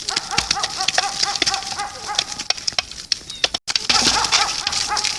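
Birds at a feeding spot: many short clicks and a quick run of short, repeated chirping calls over a steady note for the first three seconds. The sound drops out for an instant about three and a half seconds in, then the same mix of clicks and calls resumes.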